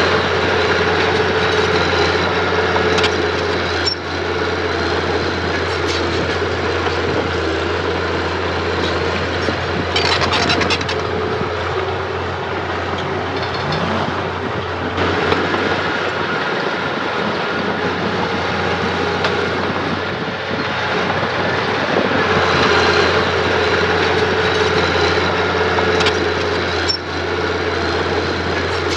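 Heavy construction machinery's engine running steadily under load, with a few clanks and a short metallic rattle about ten seconds in.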